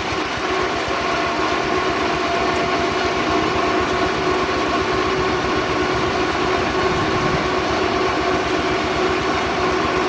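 Steam-powered sawmill running steadily: a few held tones over a fast, even low rumble of the machinery.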